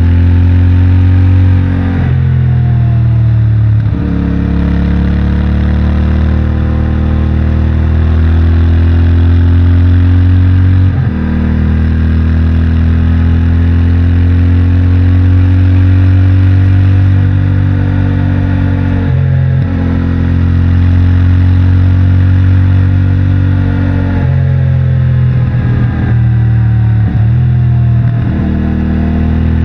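CFMOTO 450MT's parallel-twin engine and stock exhaust pulling under way, its pitch rising and falling with the throttle. Brief drops about eleven and nineteen seconds in, and a quick cluster of them near the end, as gears are shifted.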